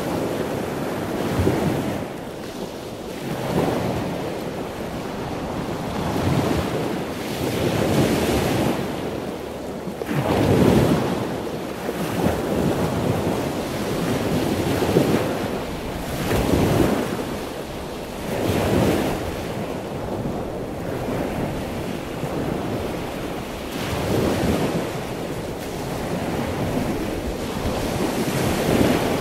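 Surf sound: waves washing in, in slow surges about every two seconds.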